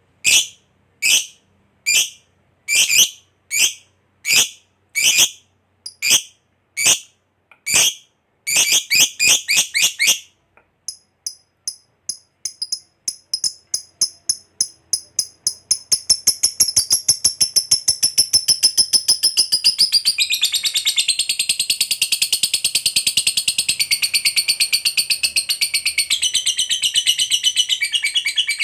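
Lovebird giving sharp, high chirps about once a second, then breaking into its long rapid 'ngekek' chatter, which speeds up into a continuous trill from about halfway through.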